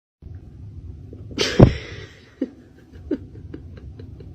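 A single loud, sharp sneeze about a second and a half in, followed by faint, fairly regular clicking.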